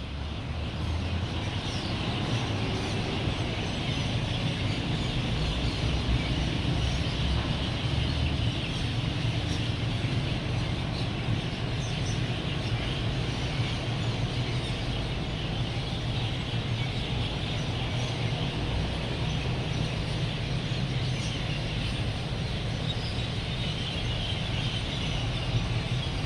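Flock of birds gathered at an evening roost, chirping densely and continuously, over the steady low rumble of road traffic.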